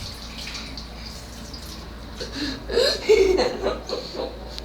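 Steady hiss of running water, like a tap. A person's voice breaks in briefly from about two seconds in, without clear words.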